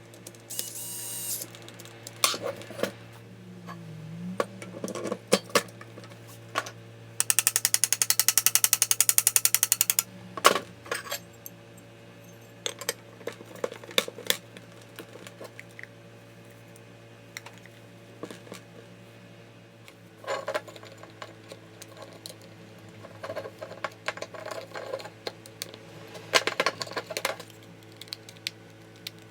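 Small tools and metal parts being handled during bench repair work: scattered clicks and knocks, with a fast, even run of clicks lasting about three seconds near the middle.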